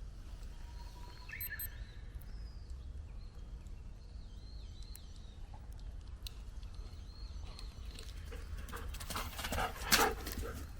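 Faint bird chirps over a low steady rumble, then from about eight seconds in, irregular crunching and rustling of steps through forest-floor litter, loudest near the end.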